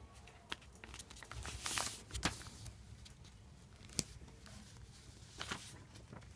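A sheet of A4 paper being folded and creased by hand: a few short rustles and crisp clicks, the sharpest about four seconds in.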